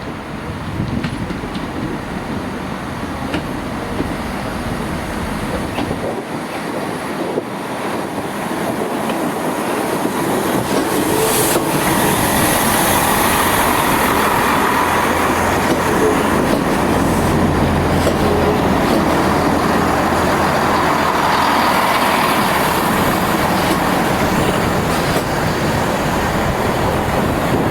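Class 165 diesel multiple unit arriving at a platform. Its diesel engines and running noise grow louder over the first ten seconds or so, then settle into a steady drone with a low hum.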